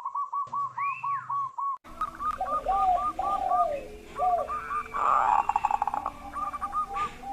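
Zebra doves (perkutut) singing: rapid runs of short, repeated coo notes, about three a second. After about two seconds the background turns noisier and a second, lower-pitched series of coos joins in.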